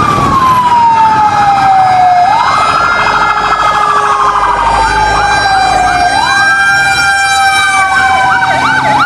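Fire engine siren wailing: each wail rises quickly and falls slowly, repeating about every four seconds, and a fast yelping siren joins near the end.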